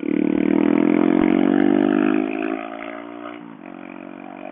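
Motorcycle engine accelerating hard, its pitch rising steadily for about two and a half seconds. It then eases off, drops in pitch a little after three seconds, and settles into a quieter, steady run.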